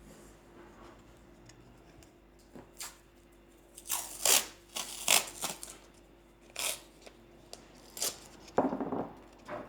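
A run of short, sharp tearing noises, several in quick succession from about four seconds in, the loudest two near the start of the run.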